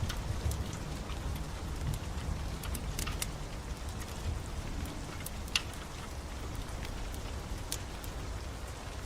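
Steady rain with a low rumble, dotted with scattered sharp pops and crackles of a wood fire burning in a fireplace; one pop about halfway through stands out as the loudest.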